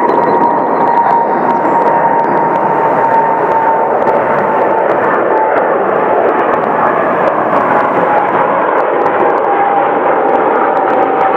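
Air Canada Boeing 787-9 jet airliner passing: a steady, loud jet engine roar with a whining tone in it that slowly drops in pitch.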